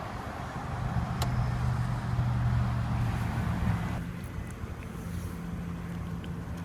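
Lexus LS 460's V8 engine idling steadily with a low, even hum. A wash of higher noise over it drops away about four seconds in, and there is a faint click about a second in.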